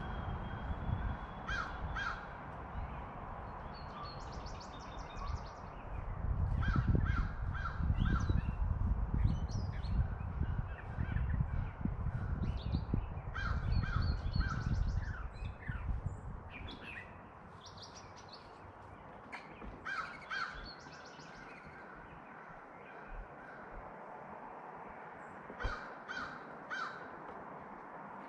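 Crows cawing in short series of about three caws, repeated several times, with smaller birds chirping high and briefly in between. A low rumble runs through the first half.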